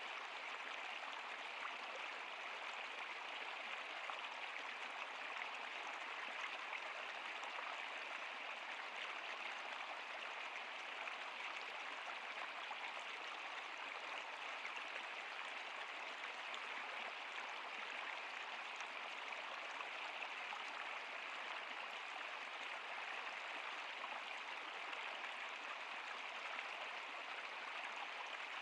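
Flowing stream water: a steady, even rush and splash of water, mostly hiss with little low rumble.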